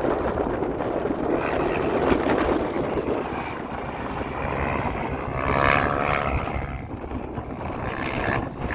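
Motorcycle engine running, with wind buffeting the microphone; a wavering rise in pitch is heard about halfway through.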